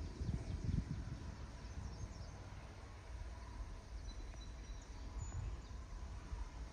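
Outdoor ambience: an uneven low rumble of wind on the microphone, with a few faint, short bird chirps.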